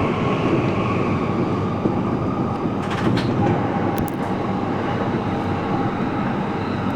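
Yamanote Line commuter train running, heard from inside the car: a steady rumble of wheels on rail, with a few sharp clicks about three to four seconds in.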